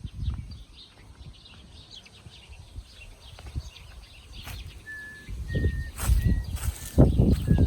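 Small birds chirping, with a series of short, steady whistled bird notes in the second half. Irregular low rumbling on the microphone picks up and grows loud over the last few seconds.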